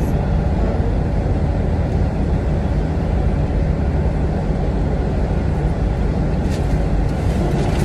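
U-Haul moving truck's engine and road noise heard from inside the cab: a steady low drone.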